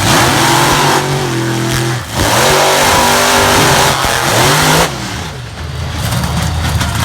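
Monster truck engine revving hard in repeated surges: the pitch climbs, dips about two seconds in, climbs again with a short blip near four and a half seconds, then falls back to a lower, rougher running sound about five seconds in.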